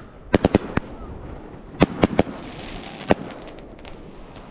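Fireworks going off in a run of sharp bangs: a quick cluster of about five in the first second, three more about two seconds in and one near three seconds, with a fizzing crackle between them.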